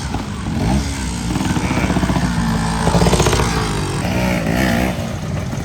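Motorcycle engines running and revving, their pitch rising and falling several times over a steady low rumble.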